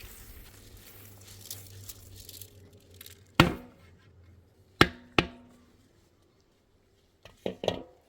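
Six sharp knocks of hard objects striking each other: one, then a close pair, then a quick run of three near the end, some leaving a brief ringing tone.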